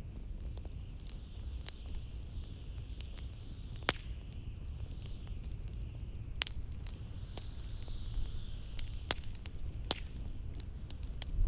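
Wood fire crackling in a fireplace, with scattered sharp pops, over a steady low rumble of blizzard wind and a higher hiss that swells and fades twice.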